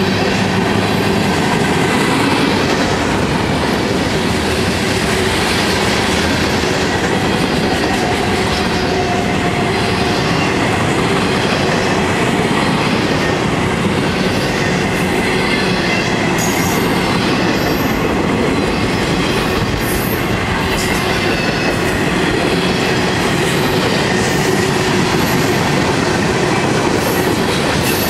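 Freight cars of a long mixed freight train rolling past at track speed. Their steel wheels give a steady, loud rumble and clickety-clack over the rails. Short high squeaks come now and then in the second half.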